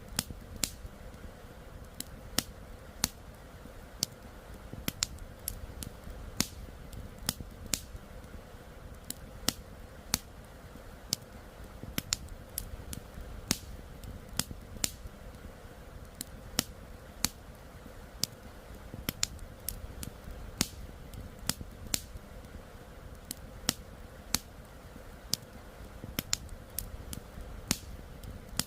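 Campfire crackling: irregular sharp pops and snaps, about one to three a second, over a steady low rumble of burning wood.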